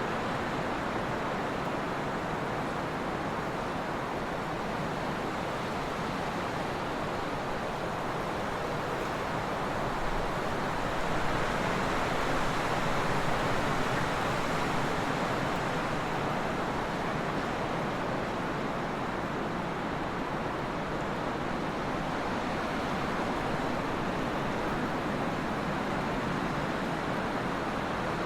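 Trade wind blowing steadily, an even rushing noise that swells a little around the middle.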